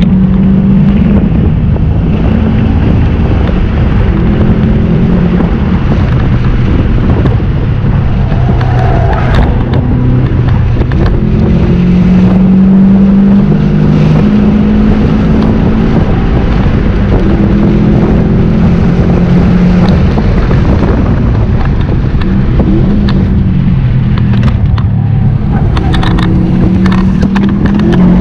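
2017 Subaru WRX STI's turbocharged 2.5-litre flat-four, with a Cobb Stage 2 tune, heard from inside the cabin while the car is driven hard on a race track. The engine note repeatedly climbs through the revs and falls back at gear changes and lifts, over steady road and wind noise.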